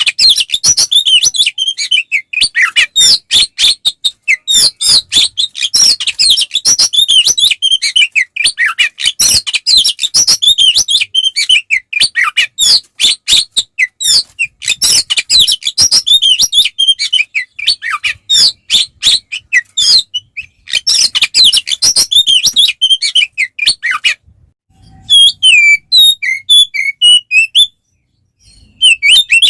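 Oriental magpie-robin (kacer) singing loud and fast: a dense stream of chirps, trills and whistled notes. About 24 s in it breaks off briefly, then resumes with sparser whistles. This is the male's full, aggressive fighting song, used to provoke rival males.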